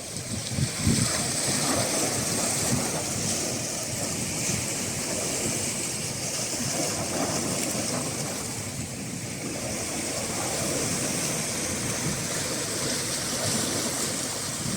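Sea waves and surf washing, a continuous rushing noise, slightly louder about a second in.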